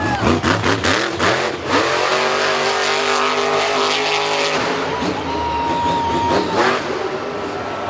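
Remote-control monster truck's motor whining as it drives, its pitch rising and falling with the throttle, with bursts of tyre and gear noise between.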